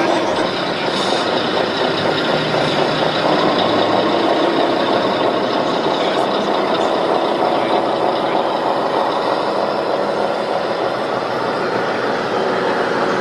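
A vehicle engine running steadily, like a truck idling.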